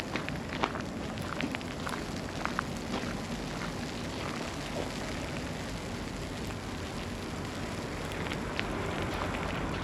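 Outdoor city ambience in a snowstorm: a steady hiss of noise with many small, irregular ticks and crackles scattered through it.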